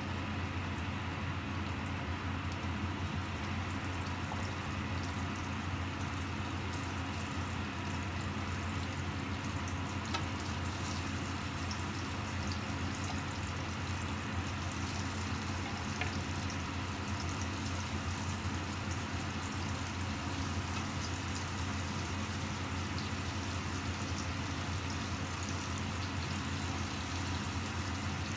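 Chicken pieces sizzling in hot oil in a nonstick frying pan: a steady frying hiss with fine crackles, over a steady low hum.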